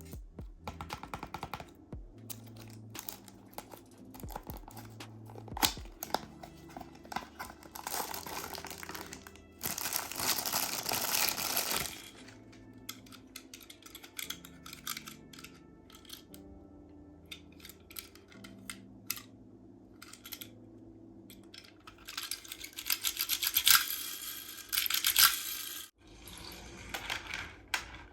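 Handling of toy-car packaging: cardboard and plastic crinkling and tearing, with scattered small clicks and taps, loudest in two stretches of rustling about a third of the way in and again near the end. Soft background music with a low bass line plays underneath.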